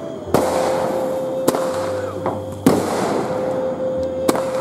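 Aerial fireworks bursting overhead: four sharp bangs about a second or so apart, with a hissing crackle trailing after some of the bursts.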